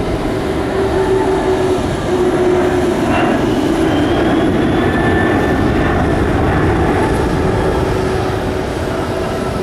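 Twin turbofan engines of a Boeing KC-46A Pegasus tanker running as it flies its display pass, a loud, steady jet sound with a faint high whine.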